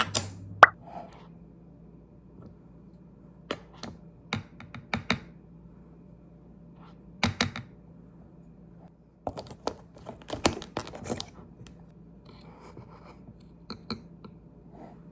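Typing on a computer keyboard: scattered key clicks in short irregular bursts, with pauses between them, over a faint steady hum.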